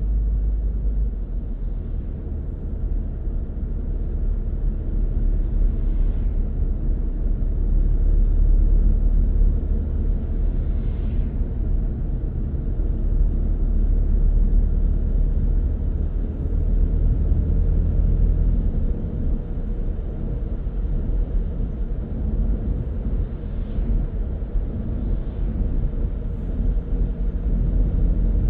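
Car driving along a road: a steady low rumble of engine and tyre noise that swells and eases slowly, with a few faint brief swishes.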